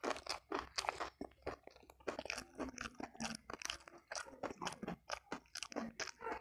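Close-miked mukbang chewing: a person crunching and chewing a mouthful that includes a bitten raw green chili, with many quick, irregular crisp crunches.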